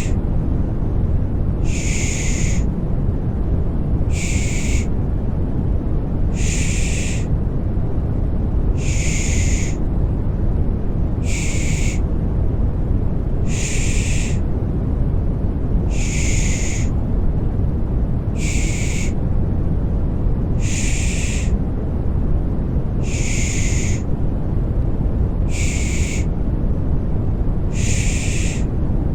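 A looped 'shh' shushing sound (pış pış), about a dozen evenly spaced hisses roughly every two and a half seconds, over steady deep white noise. It is a shushing loop for soothing a baby to sleep.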